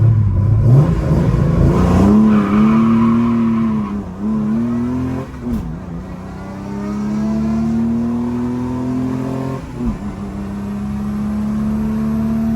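Chrysler 265 Hemi straight-six with triple Weber carburettors accelerating hard down a drag strip. Its pitch climbs and drops back briefly three times as it shifts up through the gears.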